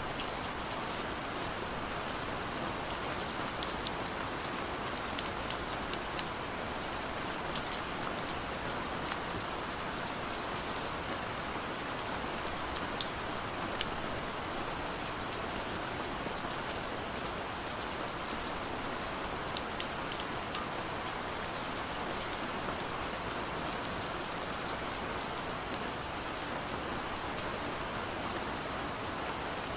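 Steady gentle rain falling, an even hiss with scattered sharp ticks of single drops hitting a surface.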